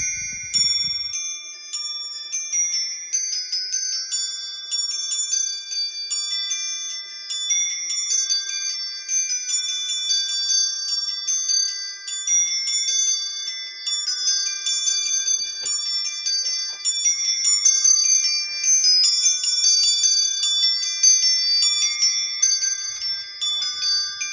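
Musical Christmas decoration playing a tinkling, glockenspiel-like melody of quick high notes.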